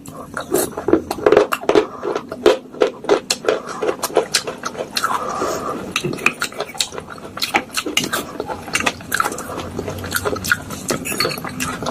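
A metal spoon crunching and scraping water-soaked clay pot pieces in a bowl: rapid, irregular clinks and crunches of clay breaking against the spoon and bowl.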